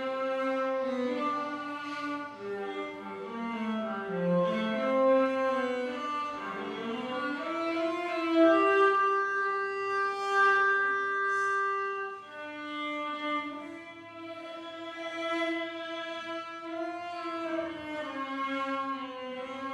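Cello playing a slow hymn melody in long bowed notes, with a long held note in the middle.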